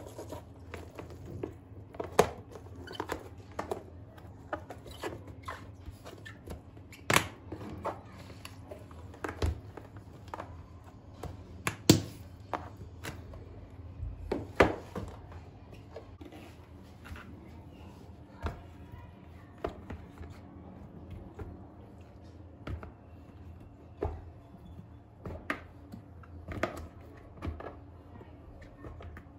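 Irregular clicks and knocks of kitchen containers and produce being handled and set down during refrigerator organising, over a steady low hum.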